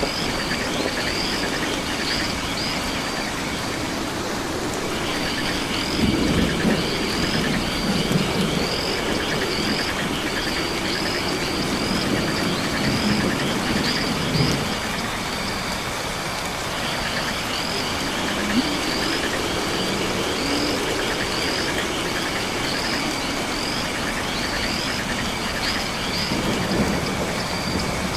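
Night rainforest ambience: steady rain hiss with frogs and insects calling, a short high chirp repeating at a steady pace over a band of trilling, and low calls swelling now and then.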